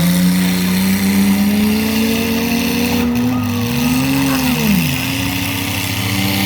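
Several mini truck engines running hard at once, one climbing steadily in pitch as it revs up, then another falling off sharply about four and a half seconds in as it lifts off the throttle.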